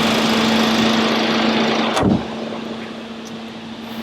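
Car engine idling steadily after a jump start, with a single thump about two seconds in, after which the engine sounds quieter.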